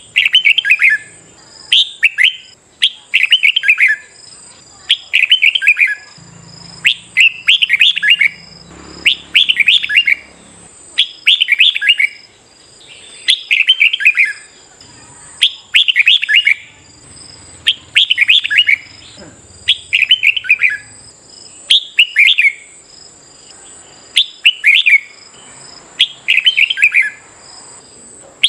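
Red-whiskered bulbul singing the same short phrase over and over, about one every one and a half seconds, each a quick run of bright notes sliding downward.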